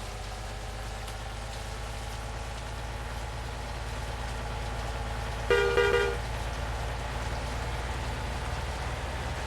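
Steady engine drone of a vehicle, with a vehicle horn sounding once for about half a second a little past halfway through; the horn blast is the loudest sound.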